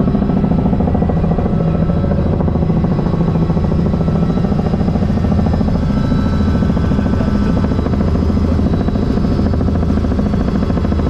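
Helicopter in flight: a loud, steady drone of engine and rotor with a rapid, even beat from the blades.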